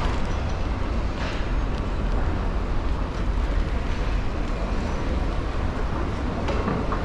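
Steady wind rumble on the microphone mixed with road and traffic noise from a moving scooter in city streets, with a couple of brief passing swells.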